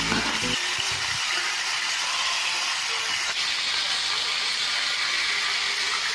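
Steak and onions frying in a hot pan, a steady, dense sizzle.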